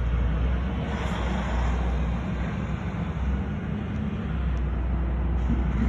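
Vehicle noise: a steady low rumble, with a broader rushing swell about a second in.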